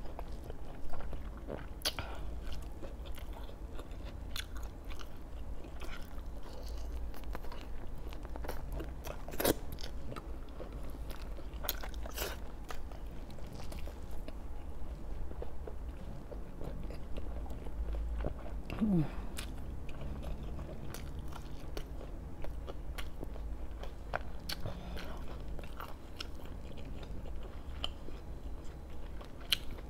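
Close-miked chewing and biting of braised pork belly, with scattered sharp crunchy bites.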